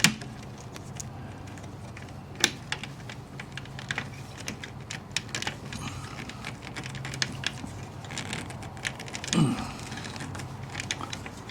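Irregular light clicks and taps of screws and small door-hinge hardware being handled, the sharpest at the start and about two and a half seconds in, with a brief vocal hum about nine seconds in.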